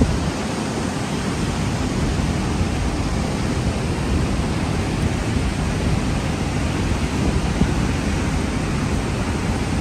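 Steady roar of rushing water from Vernal Fall at high flow.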